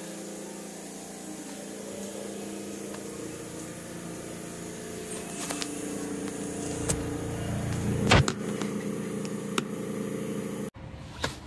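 Cabin sound of an Osaka Metro New Tram, a rubber-tyred automated guideway train: a steady mechanical hum made of several tones. The tones shift about five seconds in, a low rumble builds with a few clicks, and the sound cuts off suddenly about eleven seconds in.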